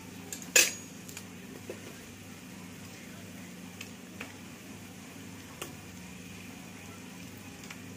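Onion and spice masala frying gently in an aluminium pressure cooker, a faint steady sizzle over a low steady hum. There is one sharp metal clink about half a second in and a few light ticks later.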